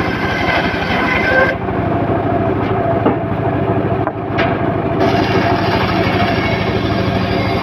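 Homemade circular sawmill running steadily, its engine and spinning blade sawing teak. The higher hiss drops away about a second and a half in and comes back about five seconds in.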